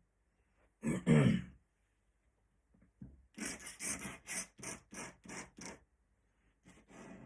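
Pen scratching on paper in a run of quick, even strokes, about three a second, with a couple more near the end: ink hatching for feathers. About a second in, a short throaty vocal sound.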